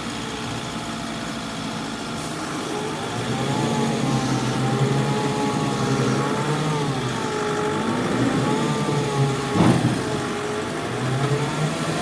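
Heavy diesel engine working under load, its pitch swinging up and down again and again as it is revved, with one sharp knock about two-thirds of the way through.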